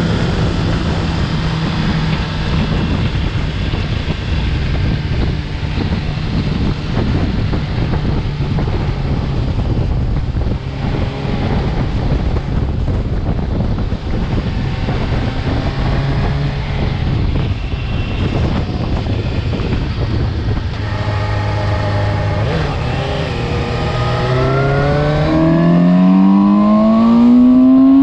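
Suzuki GSX-S750's inline four-cylinder engine running under way with wind rush. Near the end it revs up in a long rising whine under acceleration, growing louder.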